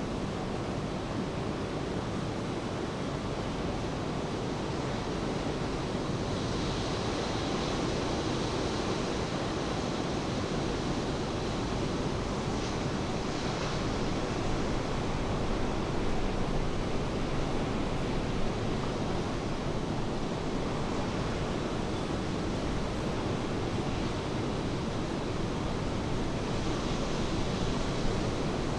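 Steady rain falling, with ocean surf washing beneath it: an even hiss that grows brighter for a few seconds about a quarter of the way in and again near the end.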